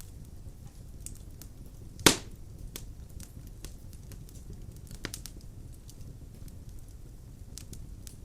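Wood fire burning in a fireplace: a low steady rumble of flames with scattered crackles and one sharp, loud pop about two seconds in, and a smaller pop near the middle.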